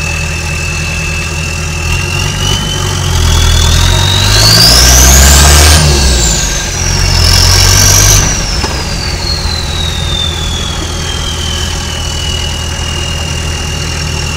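Turbo diesel engine in a 1985 Toyota 4Runner idling with a steady turbo whistle, then revved: the whistle climbs steeply and falls, rises briefly once more, and then winds slowly back down to the idle pitch as the engine settles.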